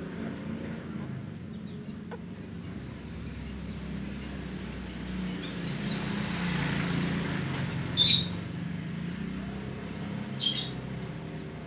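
Canaries chirping: faint high chirps at first, then two short, loud, high-pitched calls about eight and ten and a half seconds in, over a steady low hum.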